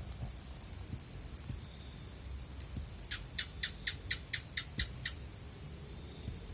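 Night insects chirping: a fast, high-pitched pulsing trill, about ten pulses a second, that breaks off around two seconds in and resumes, over a steady high whine. From about three seconds in, a second, lower caller gives about eight sharp, evenly spaced chirps over two seconds.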